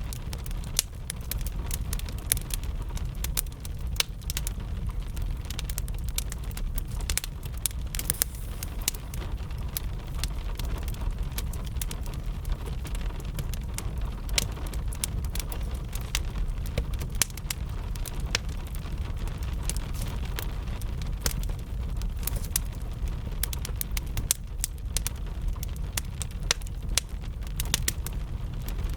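Wood fire crackling, with frequent sharp, irregular pops over a steady low rumble, while gentle rain falls in the background.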